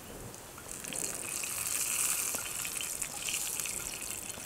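Eggplant pieces sizzling in hot oil in a frying pan: a hiss that swells about a second in and eases toward the end, with a few light scrapes of a wooden spatula against the pan.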